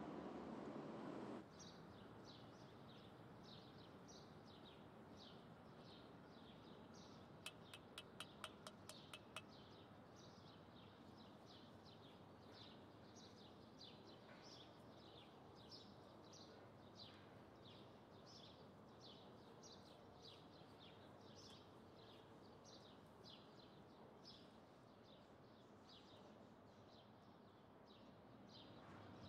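A bird's short, falling chirps, repeated evenly about twice a second over a faint hiss. About a quarter of the way in comes a quick run of eight or so sharp clicks. The first second or so holds a louder low rumble of noise.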